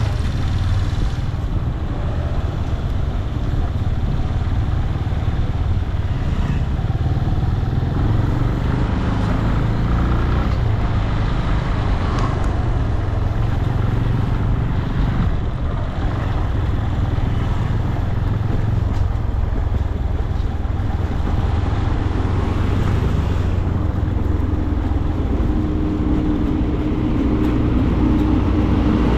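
Benelli 150i motorcycle running steadily on the move, its engine sound mixed with traffic noise.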